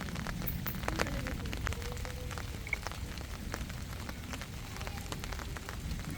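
Steady rain falling, with many separate drops striking close by over a low, even rumble.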